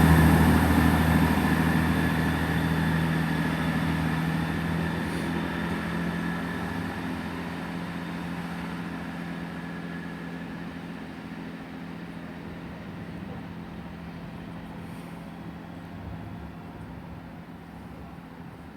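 Class 165 diesel multiple unit pulling out of the station, its engines running with a steady drone that fades gradually as the train moves away.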